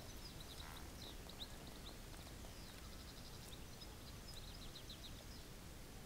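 A small songbird singing faintly: rapid runs of short, high chirps, one lasting about two and a half seconds and a shorter one near the end, over a faint low rumble.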